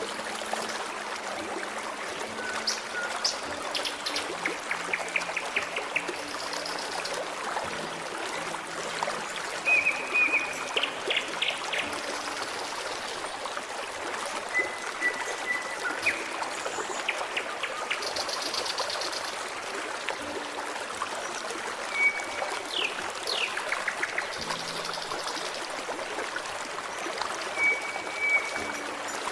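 Forest stream trickling and babbling steadily, with songbirds calling over it in short clear whistled notes and quick chirping trills.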